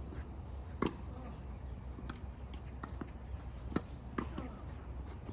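Tennis ball being struck by rackets and bouncing on the court during a rally: sharp pops about a second apart, the loudest a little under four seconds in, over a steady low hum.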